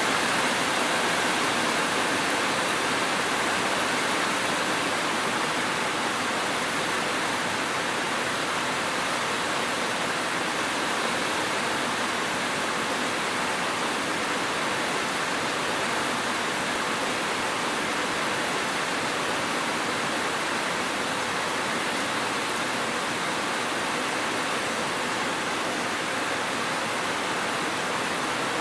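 Steady rain falling, an even hiss without separate drops or thunder.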